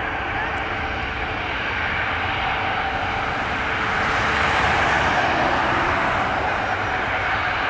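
Jet engines of a departing Ryanair Boeing 737-8200 MAX, its CFM LEAP-1B turbofans, running with a steady roar and hiss. The sound swells louder about four to five seconds in, then eases slightly.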